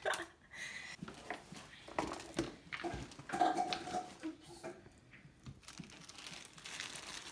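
Crinkling and rustling of plastic and paper with small irregular clicks and taps: sticker sheets and packaging being handled and peeled.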